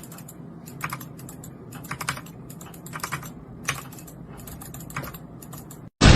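Light clicks and taps in quick irregular clusters, a few strokes at a time, with short pauses between the clusters.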